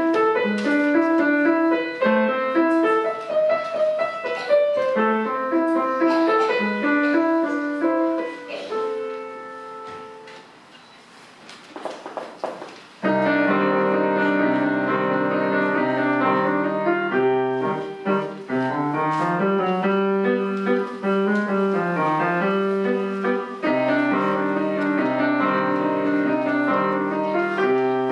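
Solo piano playing: quick broken note figures that die away to a pause about ten seconds in. After a short rustle, the playing resumes loudly with full chords over a repeated low bass.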